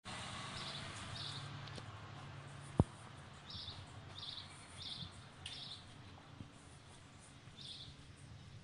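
A bird calling outdoors: short, high chirps repeated several times at uneven intervals over a low, steady background hum. One sharp click comes about three seconds in.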